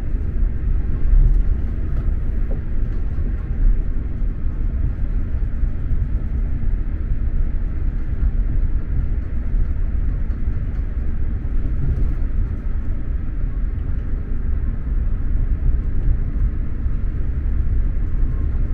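Steady low rumble of an X2000 high-speed train running along the line, heard from inside the passenger car, with a faint steady hum and a couple of light clicks.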